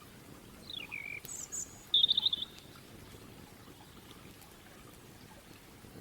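A small songbird singing: a falling whistled note, a couple of very high notes, then a short, rapid trill about two seconds in, the loudest part. A faint steady hiss lies under it throughout.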